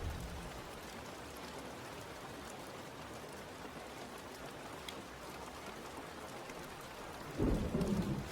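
Steady rain falling, an even hiss, with a low rumble of thunder breaking in near the end.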